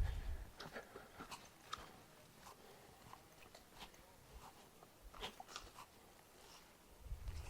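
Faint, irregular small clicks and crunches, a few a second, with a low rumble at the start and again near the end.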